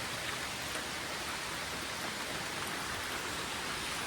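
Steady rain falling, an even hiss of drops on the ground and surfaces around.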